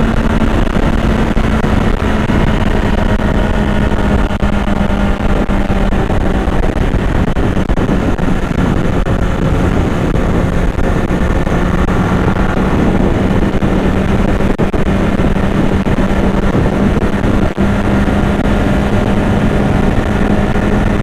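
Yamaha R1 sport bike's engine running at a steady cruise under way, with a constant engine note and heavy wind and road noise.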